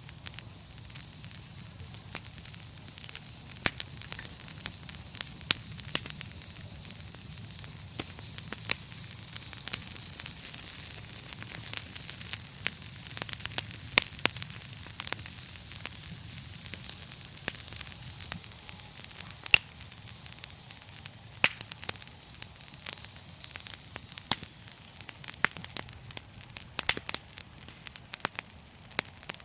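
Wood fire crackling: many sharp, irregular pops and snaps over a steady hiss and a low rumble of flames.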